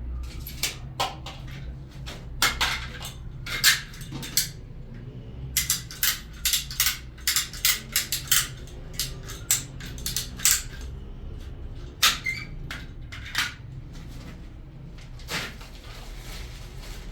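A run of irregular sharp clinks and knocks of hard objects being handled, thickest in the middle, over a low steady hum.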